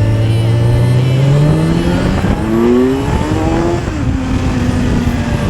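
Motorcycle engine accelerating: its pitch holds, then climbs steadily, drops sharply at a gear change about four seconds in, and carries on steady at a higher pitch.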